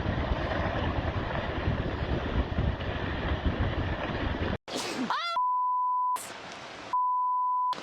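Loud wind and rushing-water noise, as from rough sea. About four and a half seconds in it cuts off to a brief exclamation, followed by two steady censor bleeps, each just under a second long.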